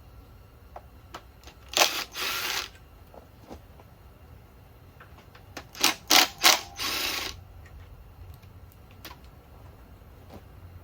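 A power tool run in two short bursts of rattling whir, about two seconds and six seconds in, the second after three quick trigger stabs: bolts being undone on an engine's high-pressure fuel pump. Faint clicks of hand tools between the bursts.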